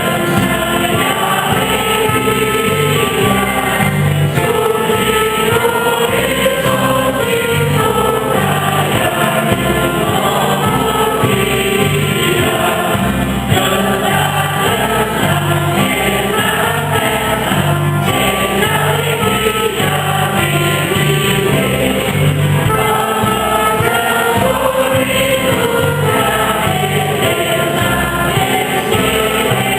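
A church singing group singing a Mass hymn together, with an instrumental accompaniment playing a low bass line under the voices.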